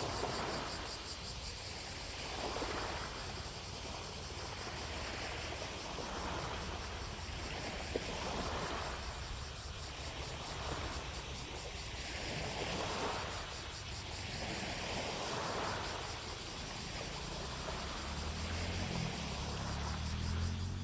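Small lake waves lapping on the shore, a soft wash about every two to three seconds, under a steady high drone of distant cicadas. A low rumble builds near the end.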